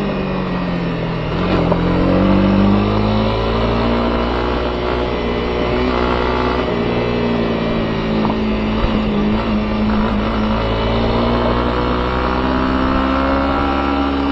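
Honda CB250R's single-cylinder engine running on the move, its revs climbing and dropping several times as the rider works the throttle and gears.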